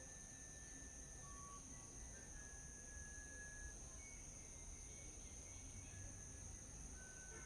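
Faint outdoor morning ambience: a steady, high-pitched insect drone, likely crickets, with short, thin whistled bird notes every second or so, over a low rumble.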